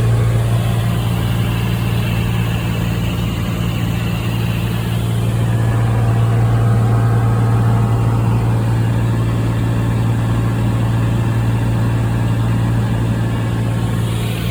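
Cessna 182T's Lycoming six-cylinder engine and propeller droning steadily in flight, a strong low hum that holds one pitch throughout.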